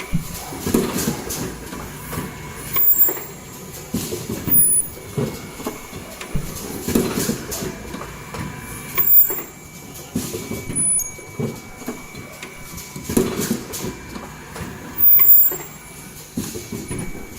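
Automatic N95 cup mask machine running through its cycle: repeated clunks and rattles every second or two, with short high hisses and clicks between them.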